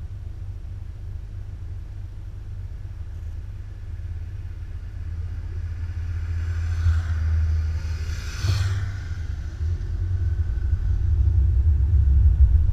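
Low wind and road rumble on a microphone riding along on a moving motorcycle, growing louder in the second half, with a brief whoosh about eight seconds in.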